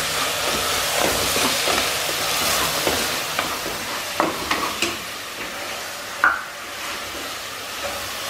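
Onion-tomato masala sizzling as it fries in an aluminium pressure cooker, stirred with a wooden spatula. A few sharp knocks of the spatula against the pan come about four, five and six seconds in.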